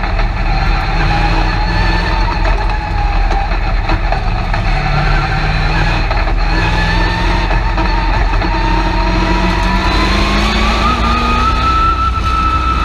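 Race truck's engine heard from inside the cab, running loud and steady, then climbing in pitch from about eight seconds in as it speeds up.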